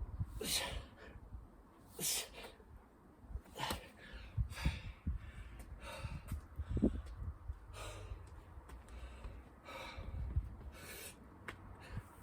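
A man breathing hard and gasping from exertion in a burpee and chin-up workout, with sharp breaths every second or so and low thumps underneath.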